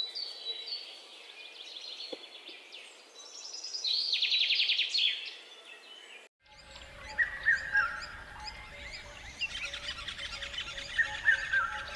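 Several songbirds singing and chirping, with a fast, loud trill about four seconds in. About six seconds in the sound drops out for a moment and a different birdsong recording starts, in which one bird repeats a short phrase again and again over other chirps.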